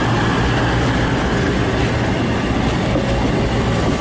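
Virgin Trains Class 221 Super Voyager diesel-electric multiple unit running at the platform, its underfloor diesel engines giving a steady low drone.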